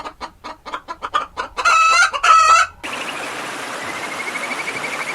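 Chicken clucking in a quick run of short notes, then two loud drawn-out calls. About three seconds in it cuts abruptly to a steady hiss with a faint, high, rapidly pulsing trill.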